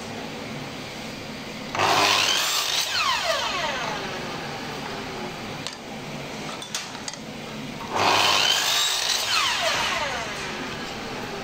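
Power tool switched on in two short bursts about six seconds apart. After each burst its pitch falls steadily as it winds down.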